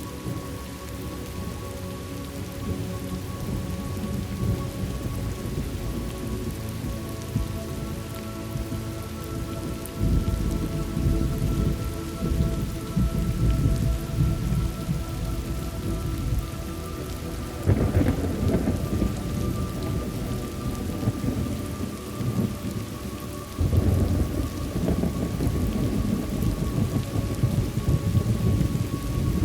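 Thunderstorm: steady heavy rain with rumbling thunder. Deep thunder rolls surge in about ten seconds in, again around eighteen seconds, and again about twenty-four seconds in.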